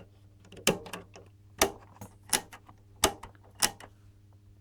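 The power switch of a Tektronix 475 oscilloscope being worked by hand, giving about five sharp mechanical clicks spaced roughly two-thirds of a second apart over a faint steady hum.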